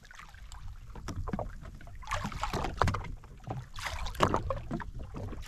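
Water slapping and swishing irregularly against the hull of a drifting jet ski, with a low rumble underneath and no engine note.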